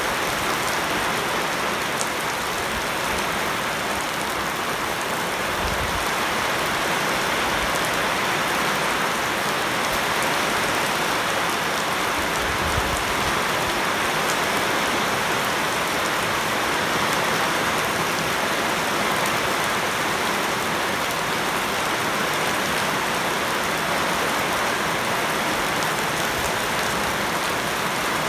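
Heavy rain falling steadily on a flooded paved yard and leafy shrubs: an even, continuous hiss of rain.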